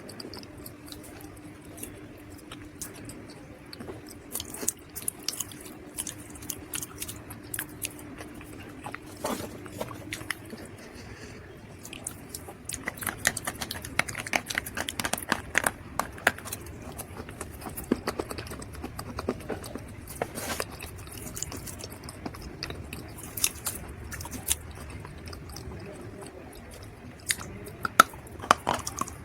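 Dry baked mud or clay crunching and crumbling in irregular crisp crackles, with a faint steady hum under the first ten seconds.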